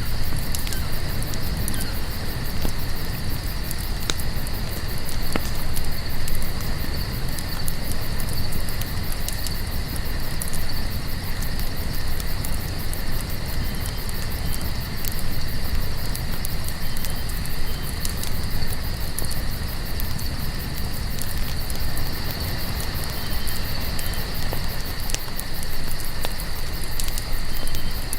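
Crickets chirping steadily in a continuous high chorus, over a crackling campfire with frequent sharp pops and a low, steady rumble of flames.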